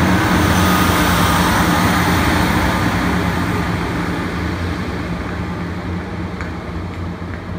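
Diesel multiple-unit train running away along the track: a steady diesel engine drone with rumbling wheel and rail noise that fades gradually as it recedes.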